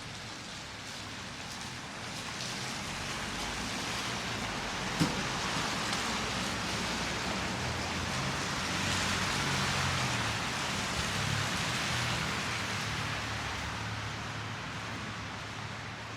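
A motor vehicle passing: its noise swells, peaks about ten seconds in and fades, with a low engine hum underneath. There is a single sharp click about five seconds in.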